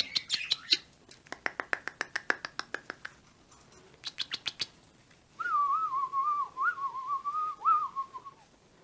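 Pet parakeets chirping in quick runs of clicky notes, then a wavering whistle lasting about three seconds.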